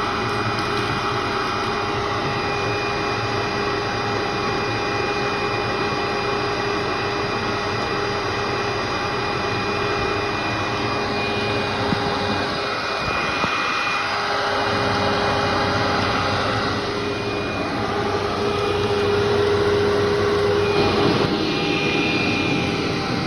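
Vacuum cleaner running continuously with a steady motor whine, its loudness swelling and easing a couple of times as it is pushed back and forth.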